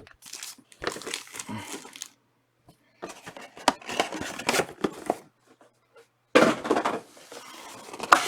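Foil trading-card pack wrappers crinkling and tearing as packs are opened and handled, in several bursts with short pauses between.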